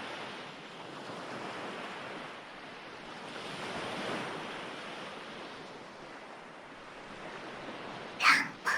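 Recorded ocean surf washing steadily, one swell rising and falling about four seconds in. Near the end, a brief whispered word cuts in over the waves.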